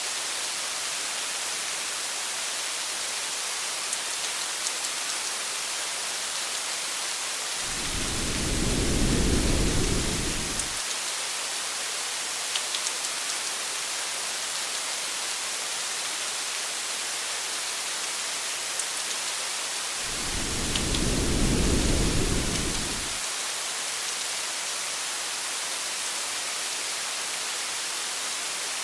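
Steady heavy rain hissing, with a few faint drop ticks. Two low rolls of thunder, each about three seconds long, swell and fade about eight seconds in and again about twenty seconds in.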